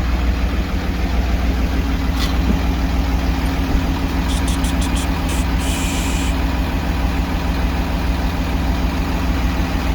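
An engine running steadily with an even low drone. About four seconds in comes a quick run of about half a dozen clicks, followed by a short hiss.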